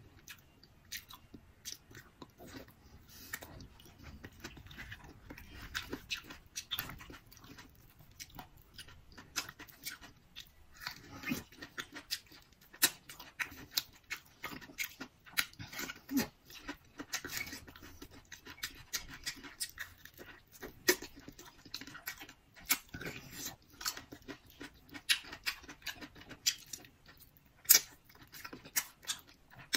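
Close-miked chewing as salmon and tomato are eaten, heard as irregular short, wet mouth clicks.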